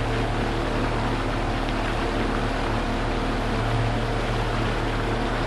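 A boat's engine running at a steady drone, heard from on board, with a constant rush of noise under it.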